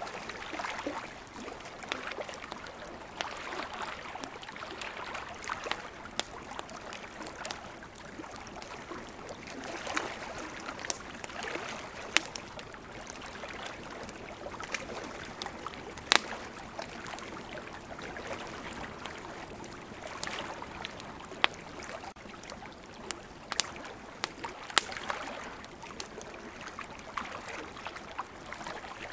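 Wood campfire crackling, with frequent small snaps and a few louder pops standing out, over a steady rushing hiss.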